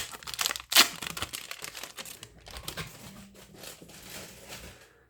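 Baseball trading cards being handled and flipped through: a quick run of crisp clicks and rustles, with one loud snap about a second in, thinning out and stopping near the end.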